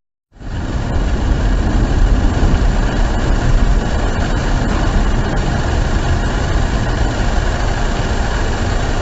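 Steady vehicle engine and road noise picked up by a dashboard camera, starting abruptly after a brief silence, with no crash or impact.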